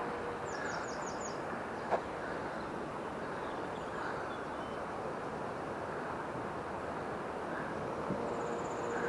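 Steady rushing outdoor background noise, with a small bird giving a quick run of five high chirps about a second in and a short high trill near the end, and a single click about two seconds in.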